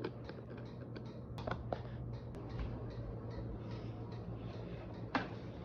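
Irregular light clicks and taps of a plate and food being handled, with two sharper clicks, one about a second and a half in and one near the end.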